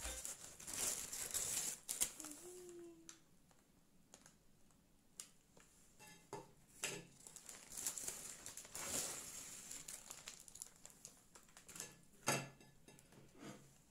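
Plastic bag and paper wrapping crinkling as dried salted fish are pulled out, with light clicks and taps as the stiff fish are laid on a plate; a sharper knock near the end is the loudest sound.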